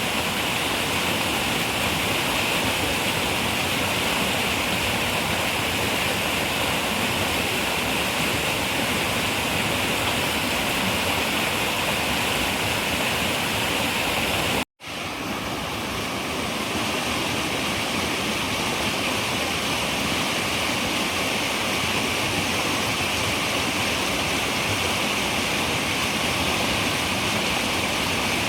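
Running river water, a steady rushing. About halfway through it cuts out for an instant and swells back in over a second or two.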